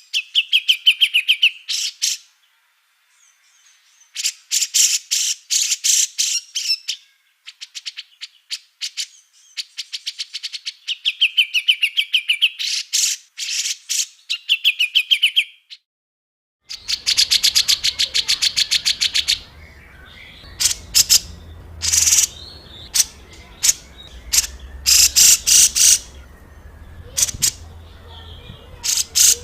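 Small songbirds giving harsh, rapid-fire calls: bursts of fast, clicking trills and chatter a few seconds long with short pauses between, some with a wavering lower warble. A little past halfway the recording changes, a low hum and background hiss coming in under shorter, sharper calls.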